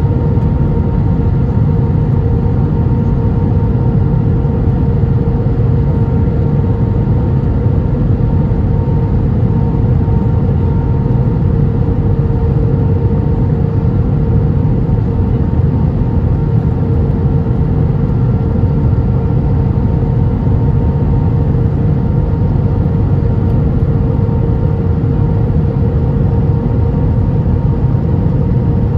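Steady cabin noise inside an Airbus A320 airliner in flight: a deep engine and airflow rumble with a steady hum on top, unchanging throughout.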